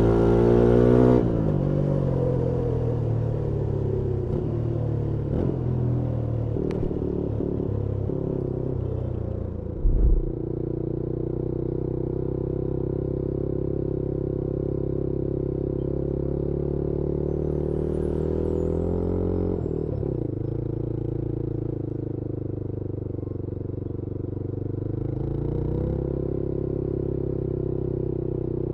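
Yezdi Scrambler 350's 334cc single-cylinder engine, heard from the rider's seat. The revs drop as the throttle closes about a second in, then the engine runs steadily at low revs, with a short thump about ten seconds in and a slight rise in revs near the end.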